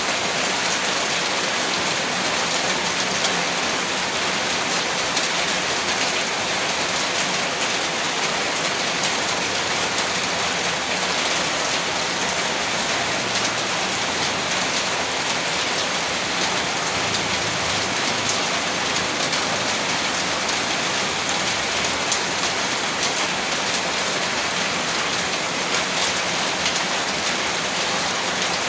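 Heavy rain falling steadily, a dense even hiss of rain on surfaces with fine drop ticks and no let-up.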